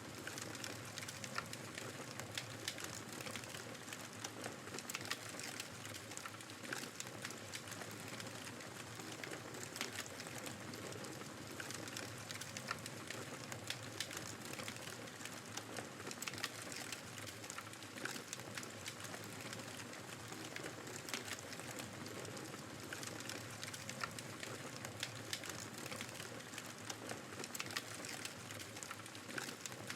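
Wood fire crackling, with frequent small irregular pops and snaps over a steady rush of snowstorm wind.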